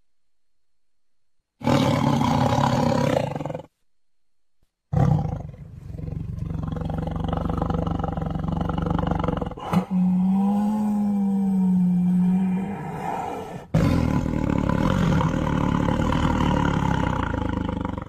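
Siberian tiger roaring and growling in separately cut clips that start and stop abruptly: a short burst about two seconds in, a long stretch from about five seconds in with a held steady-pitched call in the middle, then a sudden cut to another loud passage near the end.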